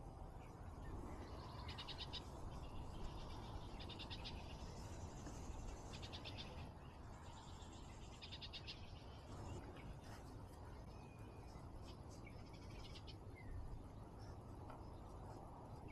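Faint, short high trills of rapid pulses from a small calling animal, repeated about five times a couple of seconds apart, with a few brief chirps near the end over a low rumble.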